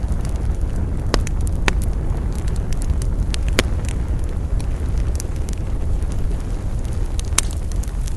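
Wood campfire burning: sharp crackles and pops of the burning wood, a few loud ones among many small ones, over a steady low rumble.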